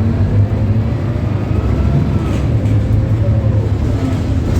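Scania K280UB bus's Euro 5 Scania DC9 280 five-cylinder diesel running steadily, a loud, even low drone.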